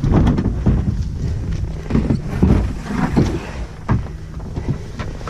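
Wind rumbling on the microphone, with scattered irregular knocks.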